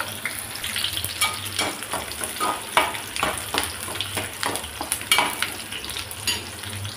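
Chopped onions and curry leaves sizzling in hot oil in an aluminium pot, with a metal spoon scraping and knocking against the pot as they are stirred, about three strokes a second.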